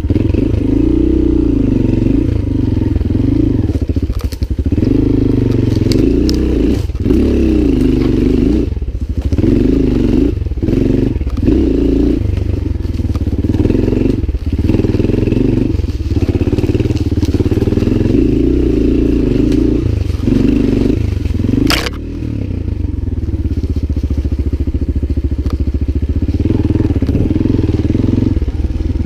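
Lifan LF200GY-5 single-cylinder enduro motorcycle engine running off-road under constantly changing throttle, its pitch rising and falling with frequent brief drops as the throttle is closed. One sharp knock cuts through about three-quarters of the way in.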